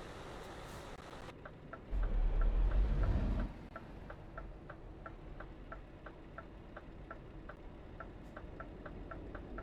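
Steady, even ticking, about three ticks a second, starting a little over a second in. A loud low rumble runs underneath for about a second and a half, about two seconds in.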